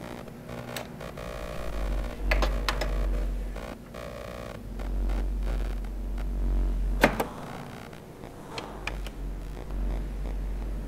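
Experimental soundtrack of a deep low hum that swells and fades in slow waves, with a handful of sharp clicks and knocks scattered through it, the loudest about seven seconds in.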